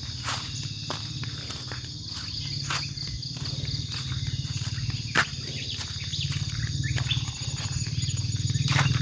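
Outdoor morning ambience: a steady high insect drone over a continuous low rumble, with scattered sharp clicks and crackles like footsteps on leaf litter, the loudest about five seconds in.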